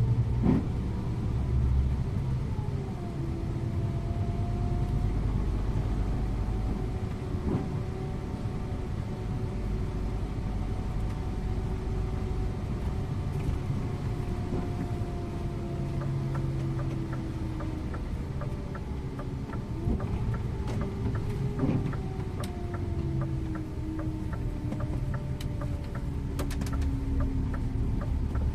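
Scania InterLink coach's diesel engine running on the road, heard from the driver's seat over a steady low rumble. Its pitch rises and falls with engine speed. A run of light, regular ticks starts a little past halfway.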